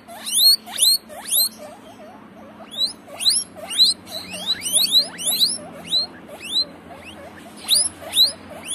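Guinea pigs wheeking: a string of sharp, high squeals that each sweep upward in pitch, coming several a second in irregular runs.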